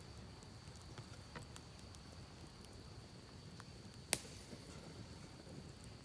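Campfire crackling faintly with scattered small snaps and one sharp pop about four seconds in, over the low steady rush of a creek.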